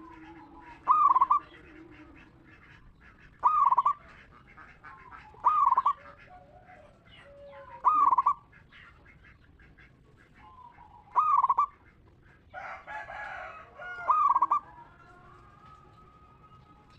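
Zebra dove (perkutut) cooing: six loud, short, clear call phrases repeated every two to three seconds, with a brief rustling noise between the last two.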